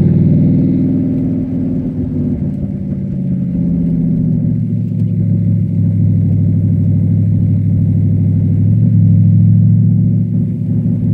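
Cadillac STS-V's supercharged 4.4-litre V8 dropping in revs over the first few seconds, then running steadily at low revs, with a slight rise about nine seconds in.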